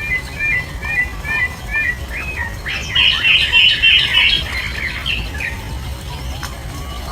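Bird calling: a run of short repeated chirps, about three a second, then a louder burst of chattering, higher calls about three seconds in.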